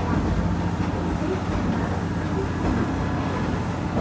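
Diesel railcar running at speed, heard from on board: the steady drone of its diesel engine under a continuous rumble and light clatter of the wheels on the track.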